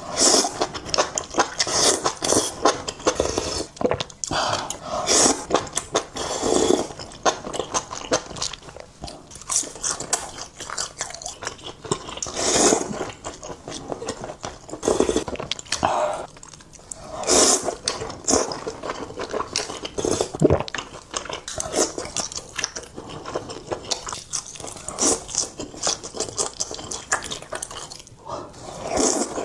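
Close-up eating sounds: a person biting and chewing food, with irregular crisp, crunchy bites.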